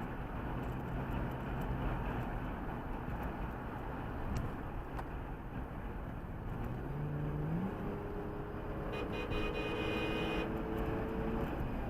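A car driving, recorded by a dashcam, with steady road and tyre noise. About seven seconds in, the engine note rises as it speeds up, and a brief high tone joins for a second or so near nine seconds.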